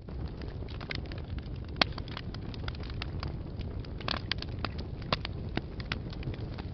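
Wood fire burning in a fireplace: a steady low rumble of the flames with irregular sharp crackles and pops, one louder pop a little under two seconds in and a quick cluster of them around four seconds.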